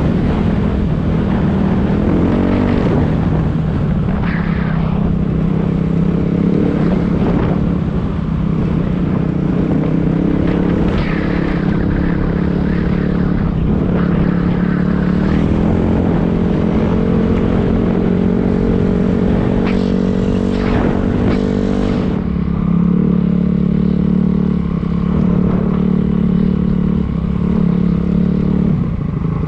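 Dirt bike engine running while riding, its note rising and falling with the throttle.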